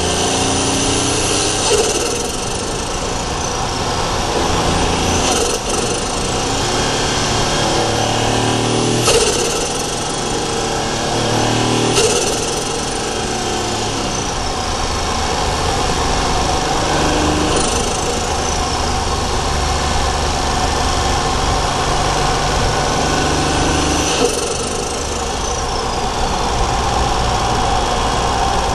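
Daihatsu Charade GTti's three-cylinder turbo engine pulling under load, heard from the engine bay. The turbo whistle rises as it spools up, then at each peak a sharp click is followed by a falling whistle as it winds down, about six times.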